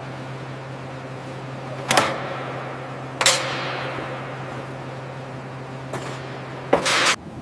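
Two sharp clanks about a second apart, each ringing out and dying away slowly, over a steady low hum. Near the end there is a short burst of hiss.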